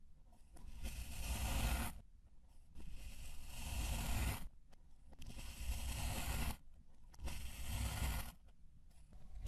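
Four long scraping strokes, each about a second and a half, with short pauses between them.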